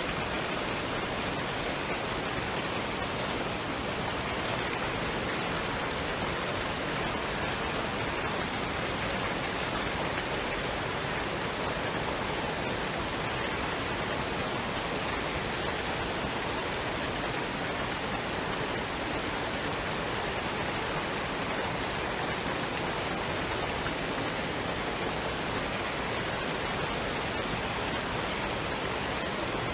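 Waterfall and stream water rushing in a steady, even hiss that does not change.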